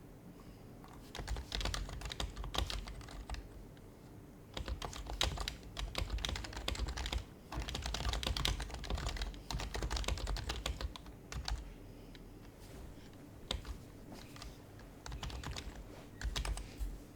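Typing on an HHKB Professional HYBRID Type-S keyboard with its quiet Topre keys, in bursts of rapid keystrokes with short pauses between them.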